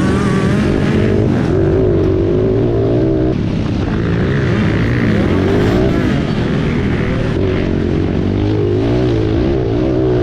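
Dirt bike engine running with its pitch rising and falling as the throttle is worked.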